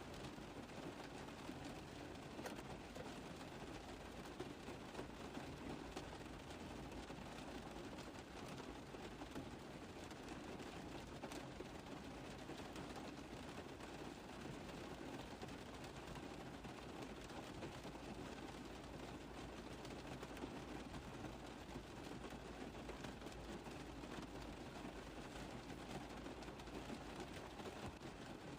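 Steady rain tapping on a car roof: a continuous dense wash of small drop impacts, with no change in strength.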